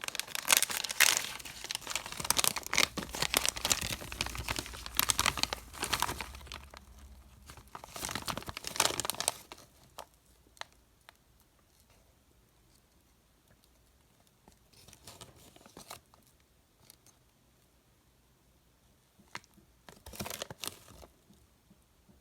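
Candy wrappers being crinkled and torn open, a dense crackling rustle for the first nine seconds or so. After that it goes mostly quiet, with scattered small clicks and two short rustles near the middle and near the end.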